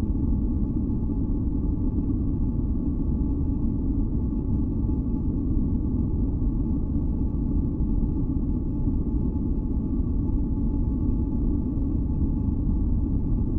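Steady, deep masking noise for sleep, weighted to the low end like a rumble, with faint steady high tones held over it. It does not change.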